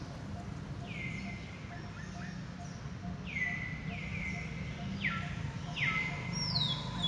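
A bird calling: a series of short whistled notes, each sliding down in pitch, repeated about once a second and louder toward the end.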